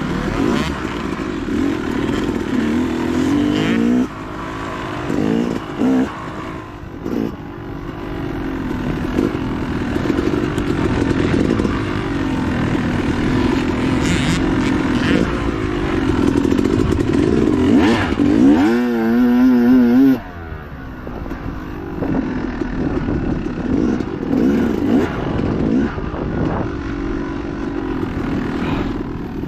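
Dirt bike engine running hard on a woods race course, its pitch rising and falling as the throttle is worked. About nineteen seconds in there is a brief warbling rev, then the engine note drops off sharply.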